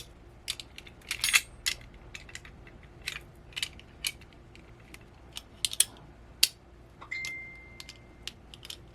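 Small metal parts of a VESA adapter mount kit clicking and clinking as a screw is worked and tightened with a small hand tool, in irregular taps and knocks. About seven seconds in, a high, steady tone lasts about a second.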